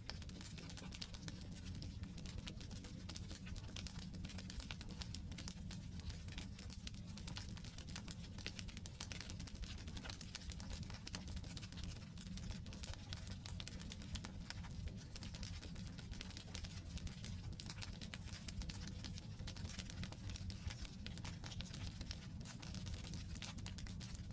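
Campfire of wood logs burning, crackling continuously with many small irregular pops over a steady low rumble.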